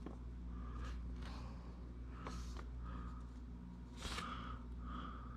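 Faint handling noises: a few soft rustles and light knocks spaced a second or so apart, over a low steady hum.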